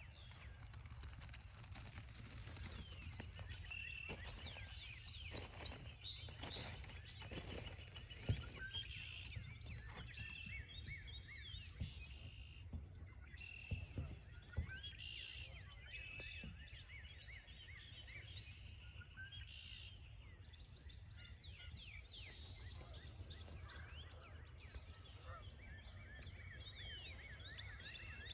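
Wild songbirds calling and singing, with short notes repeated over and over and quick high chirps, over a steady low rumble. A run of sharp crunching steps comes about five to eight seconds in.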